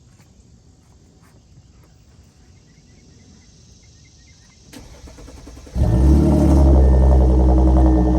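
Audi A7 with its mufflers deleted cold-starting: after a click and a brief crank, the engine catches nearly six seconds in, flares loudly and settles into a steady, loud high idle through the straight-through exhaust.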